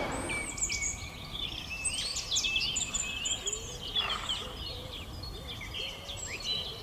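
Birds singing: many short high chirps and whistles overlapping, with some lower whistled notes in the middle.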